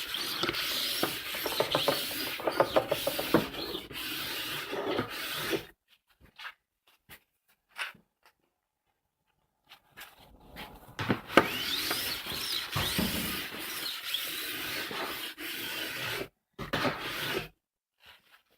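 Medium diamond file drawn along a ski's steel edge in overlapping strokes, a dry rasping rub, sharpening the edge. The strokes stop about six seconds in, with only a few light clicks, and start again about four seconds later.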